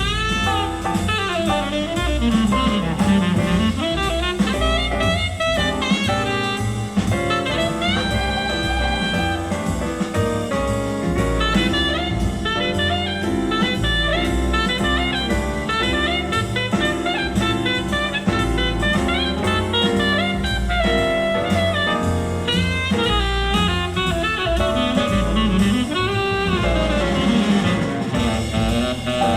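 Jazz recording with saxophone, bass and drum kit, played through a high-end hi-fi system of SACD player and YG Acoustics loudspeakers and heard in the listening room.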